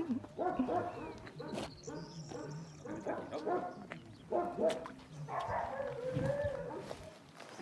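Dogs barking, a run of short barks one after another, with a longer drawn-out call about six seconds in.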